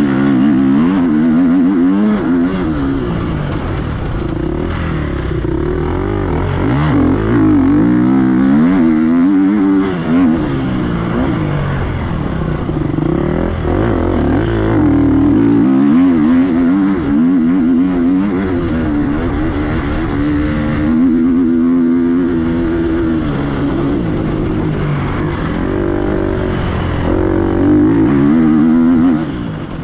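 Off-road enduro motorcycle engine heard from onboard the bike, revving hard and repeatedly rising and falling in pitch as the rider accelerates, shifts and backs off through the corners of a dirt track.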